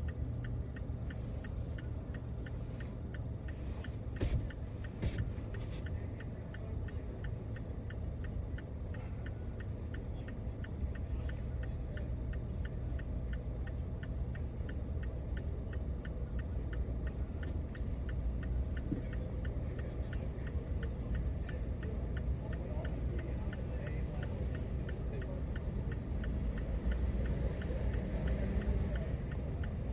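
Car driving on city streets: steady low rumble of engine and road noise, with a few sharp clicks in the first several seconds.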